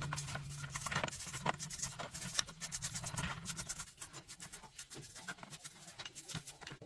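Irregular light clicks and scratches of small hard objects being handled, a few every second, with a low hum that fades out in the first half second.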